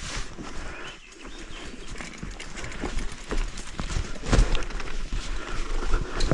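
Mountain bike riding over a rough dirt trail: tyres, chain and frame rattle and knock over the bumps, with wind rumbling on the microphone. It gets louder about halfway through.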